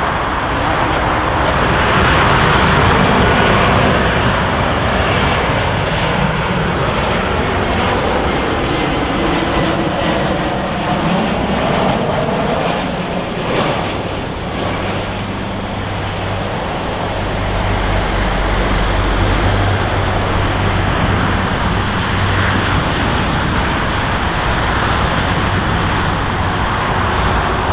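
Boeing 737-800 jet airliner passing close by, its CFM56 turbofan engines making a loud, steady rush of jet noise. A deeper low rumble comes in about two-thirds of the way through.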